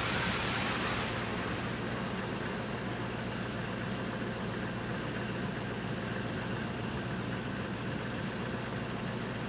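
An engine running steadily at idle, a low even hum under a constant hiss; a brighter hiss fades away in the first second.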